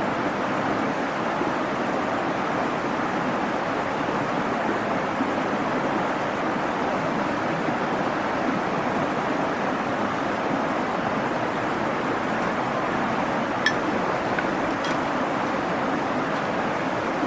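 Bonfire burning: a steady rushing noise, with two sharp crackling pops near the end.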